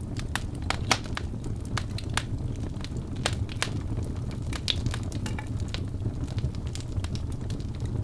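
Wood fire burning in a fireplace: a steady low rush of flame under irregular sharp crackles and pops of the burning logs, several a second.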